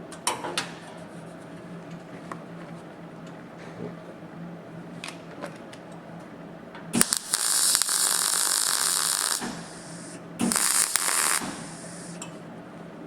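Two tack welds on a steel sill panel: the welding arc gives a steady hiss for about two and a half seconds, then again for about a second. A few light clicks come near the start.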